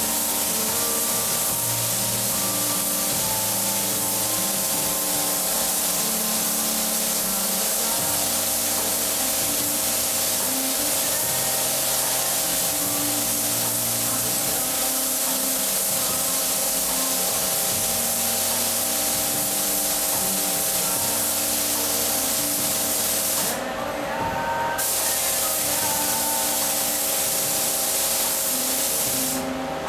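Compressed-air spray gun hissing steadily as lacquer is sprayed, with the trigger let off briefly about two-thirds of the way in and again just before the end.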